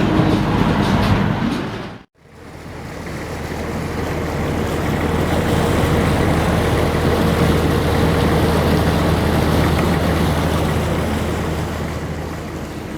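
A river vessel's diesel engine running with a steady low hum, over a hiss of wind and water. It comes in after a sharp cut about two seconds in and eases off a little near the end.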